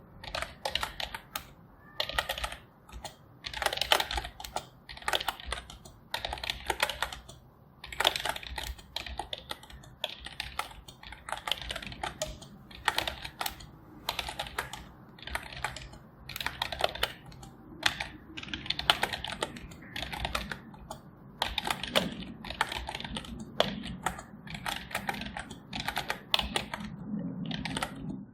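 Typing on a computer keyboard: rapid runs of key clicks in short bursts, with brief pauses between them.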